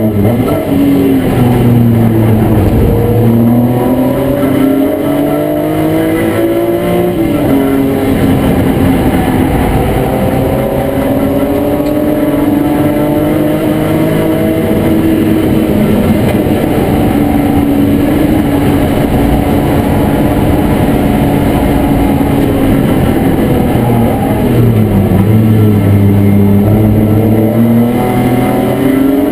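BMW E36 M3 race car's straight-six engine, heard from inside the cabin under hard racing use. The revs climb, drop sharply with a gear change about seven seconds in, then hold high and creep up over a long stretch. They fall away about 24 seconds in as the car slows, then climb again near the end.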